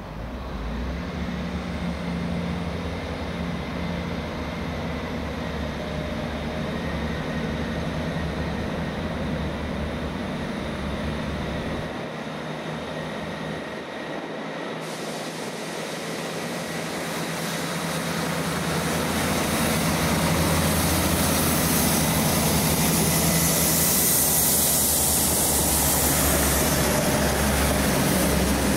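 A train at the station, a steady low hum with a hiss, growing louder from about two-thirds of the way through.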